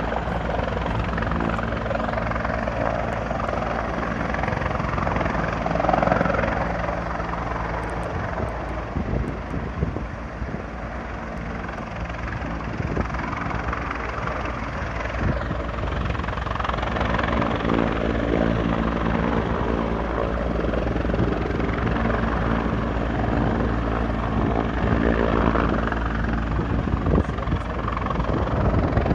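Rescue helicopter's rotor beating steadily and loud close by, over its engine noise. The sound eases slightly about ten seconds in, and the rotor beat comes through stronger again after about seventeen seconds.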